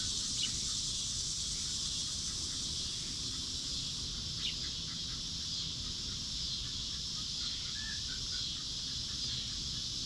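Outdoor farmyard ambience with a steady high-pitched insect drone throughout. Over it come two brief bird chirps, one near the start and one about four and a half seconds in, and a quick run of soft, evenly spaced chirping calls in the second half.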